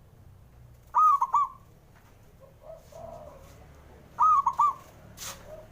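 Zebra dove (perkutut) cooing: two loud phrases about three seconds apart, each a quick run of three high notes, with fainter, lower coos between them.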